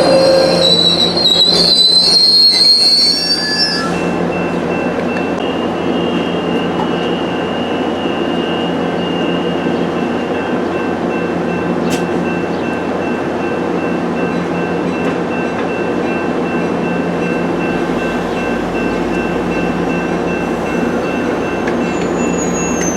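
A train rolling along the rails. Its steel wheels squeal in high shifting tones for the first few seconds, then give way to a steady rumble, and a fresh squeal slides down in pitch near the end.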